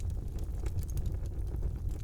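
Wood fire burning in a fireplace: a low steady rumble of flames with scattered small crackles and pops.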